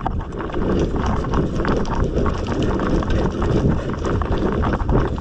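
A wheelbarrow pushed at a run over rough ground: its wheel and body rumble and rattle steadily, mixed with running footsteps.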